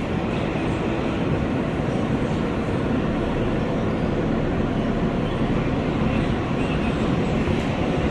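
R143 subway train running through the tunnel: a steady rumble of wheels on rail and car noise with no sudden events.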